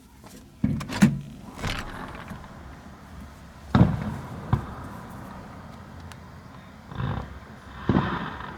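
Fireworks shells bursting: a series of about seven booms, irregularly spaced, each trailing off in a rumbling echo.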